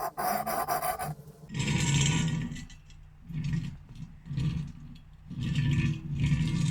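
Metalworking on a steel frame: a rasping, filing-like tool noise for about the first second, then several low rumbling scrapes about a second apart.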